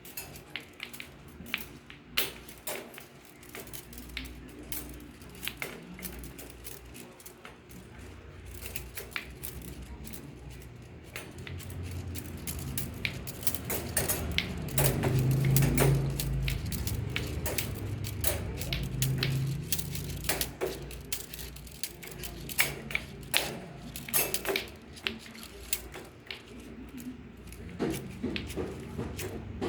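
Irregular clicks and knocks of lato-lato clacker balls being batted about, with a low rumble swelling up in the middle.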